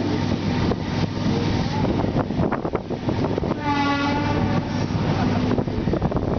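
Trains running on parallel tracks, with a steady rumble and a few sharp clicks of wheels over rail joints. A train horn sounds once for about a second near the middle.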